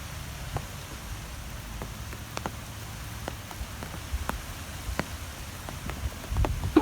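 Wind blowing with a low rumble, sprinkled with scattered, irregular sharp ticks and taps. The rumble swells louder near the end.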